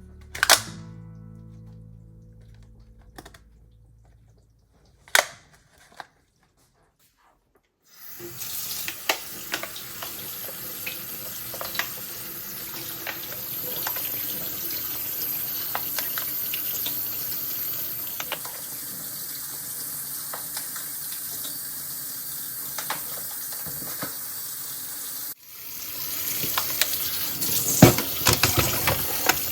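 Water running steadily, as from a tap into a sink, with scattered small clicks and knocks; it starts about eight seconds in after a silence, breaks off briefly near the end and comes back louder. Before it, faint background music and a few sharp clicks.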